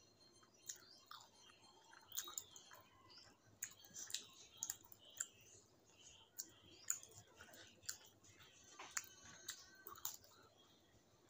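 Close-miked mouth sounds of a person chewing rice and curry eaten by hand: quiet, with irregular wet smacks and clicks several times a second.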